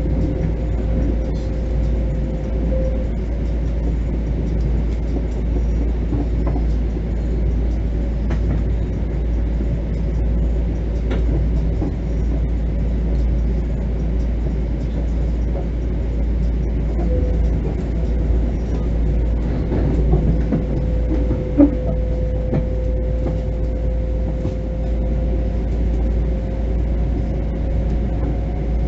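Inside a Bombardier M7 electric multiple-unit car in motion: a steady low rumble and hiss of wheels on rail, with an electric motor hum that fades out a few seconds in, returns past the middle and rises in pitch near the end. A single sharp knock is heard about two-thirds of the way through.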